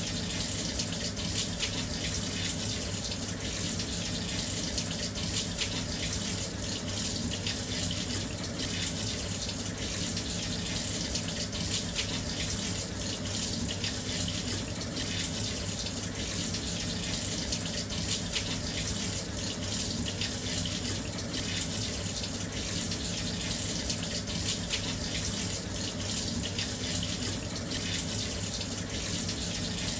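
Washing machine filling with water: a steady stream of water pouring into the drum, an even hiss with a low hum underneath.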